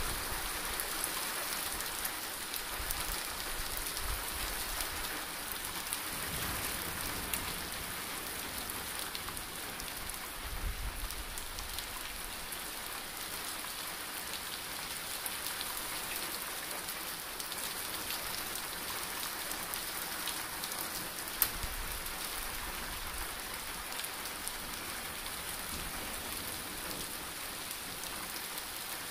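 Heavy monsoon downpour: a steady hiss of rain pouring onto surfaces, with one sharp click about two-thirds of the way through.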